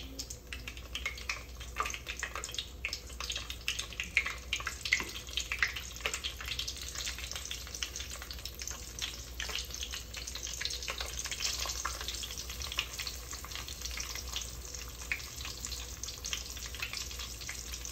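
Breaded pork chops frying in hot oil in a pot: a steady sizzle with dense, fast crackling and spitting.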